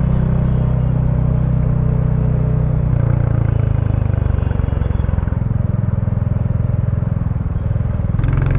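Royal Enfield Bullet 350's single-cylinder engine running through its stock exhaust while riding, a steady low exhaust note. It changes pitch about three seconds in and again near five seconds.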